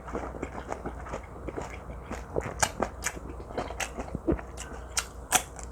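Close-up eating sounds of someone chewing teriyaki-marinated pork neck: wet mouth sounds and sharp clicks at an irregular pace.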